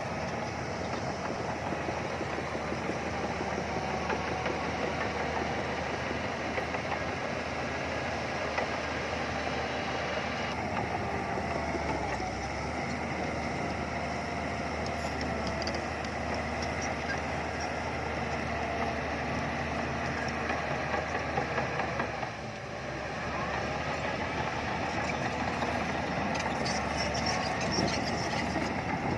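Bulldozer's diesel engine running steadily at work, with a short drop in level about three-quarters of the way through.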